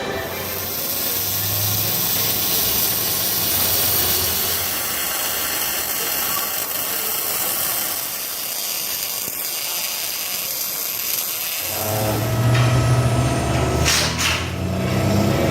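A shop power tool running steadily with loud hiss and a high whine, stopping about twelve seconds in. A low, steady hum takes over after it.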